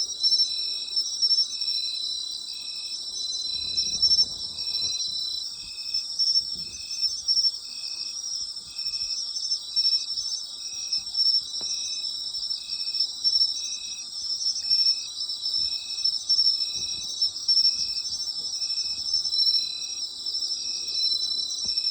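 Night chorus of autumn insects: a dense, steady high-pitched trilling, with one insect chirping in a steady rhythm of about one short chirp a second.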